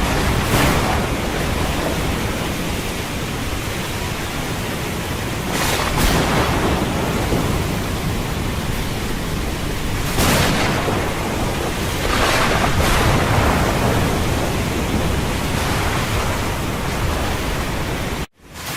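Storm at sea: a steady rush of wind and water, with waves surging and crashing every few seconds, the biggest about six and ten seconds in. The sound drops out for a moment near the end.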